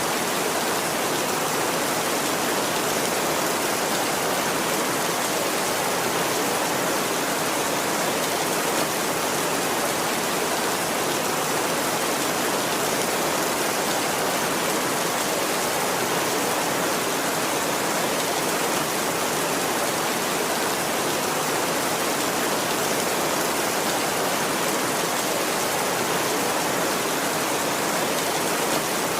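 Heavy rain falling steadily: a dense, even hiss with no let-up and no thunder.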